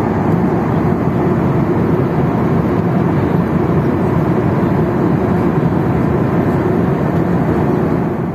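Steady roar of cabin noise inside a Boeing 737-800 in flight: its CFM56-7B engines and the rush of air over the fuselage, an even, unchanging drone.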